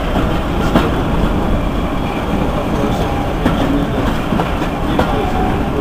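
A diesel-hauled passenger train running, heard from an open coach window: a steady rumble of the coaches on the track with an occasional sharp wheel click over rail joints, and the locomotive's engine running steadily ahead.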